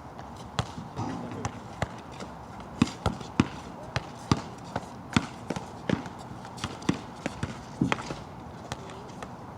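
A basketball being dribbled and bounced on a wet outdoor court: sharp, irregular thuds, two or three a second.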